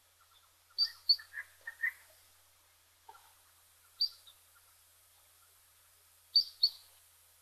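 Bird calling: short, sharp, high chirps, mostly in quick pairs repeated every few seconds, with a few lower notes after the first pair.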